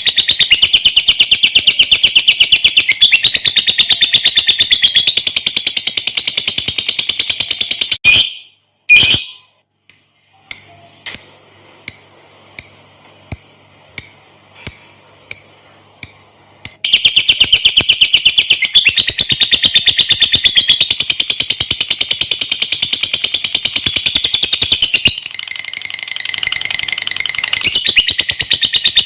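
Lovebird giving its long, rapid, high-pitched chattering trill ('ngekek panjang'). About eight seconds in, the trill breaks off for a moment of silence and then a run of about a dozen short, evenly spaced chirps, about two a second. The continuous trill resumes a little past the middle.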